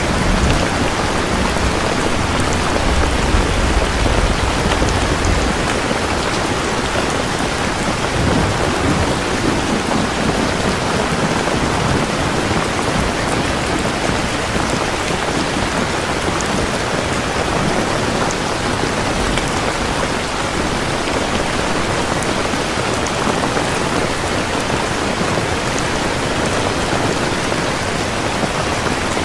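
Steady heavy rain falling, with a low thunder rumble in the first few seconds that dies away about five seconds in.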